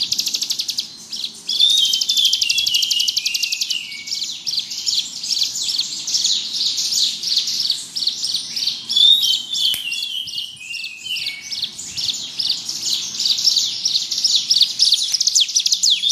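Ciblek gunung, a mountain prinia, singing non-stop in fast, buzzing, rapidly repeated high-pitched trills, the rolling 'ngebrem' song style. About two seconds in, and again around nine seconds, a lower twittering phrase drops in pitch.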